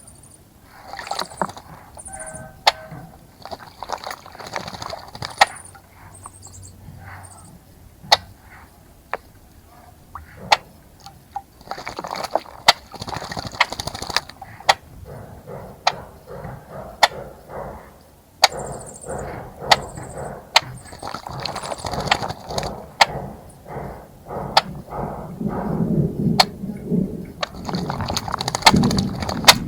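Small birds splashing in a bird bath: repeated bouts of splashing water, with many sharp ticks throughout and a few short high chirps.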